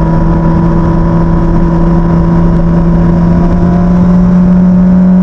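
Motorcycle engine running at steady revs while riding, its pitch creeping slightly upward, over a constant rush of noise.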